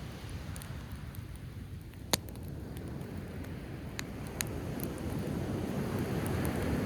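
Driftwood campfire crackling, with a sharp pop about two seconds in and two smaller snaps about four seconds in, over the steady rush of ocean waves that swells louder near the end.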